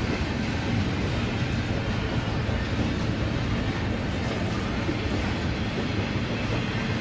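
BNSF double-stack container train passing, its cars rolling along the rails in a steady, unbroken low noise.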